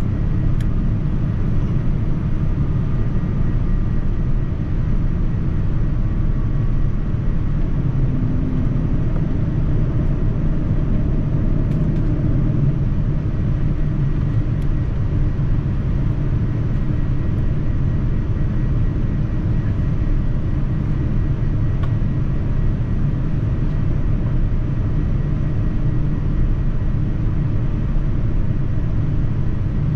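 Steady low drone inside the cabin of a Boeing 787-9 airliner: engine and airflow noise, even in level throughout.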